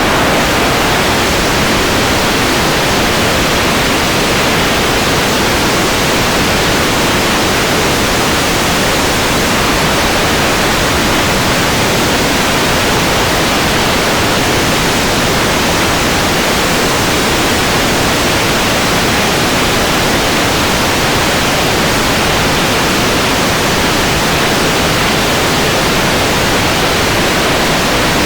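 Steady, loud rushing noise with no breaks or changes, spread evenly from low to high pitches.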